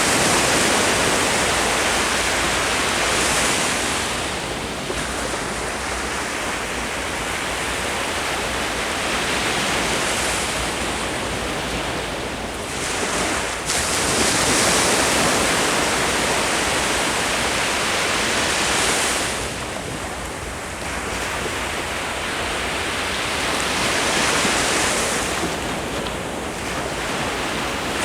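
Ocean waves breaking on the shore, the surf swelling and receding every few seconds, with a sudden surge about halfway through. Some wind on the microphone.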